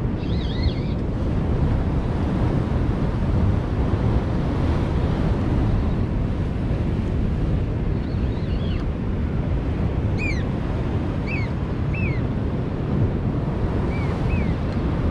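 Steady rumbling wind and water noise. Short high chirps, most likely a bird, come a few times, mostly in the second half.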